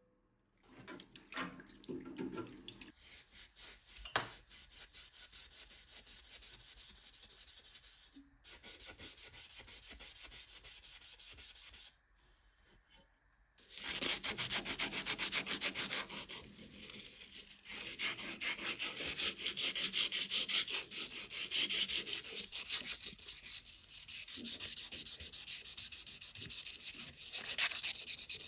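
Rapid back-and-forth hand rubbing with an abrasive on a bicycle part, as in sanding or scouring, in steady even strokes. The strokes pause briefly about a third of the way in and for a little longer near the middle.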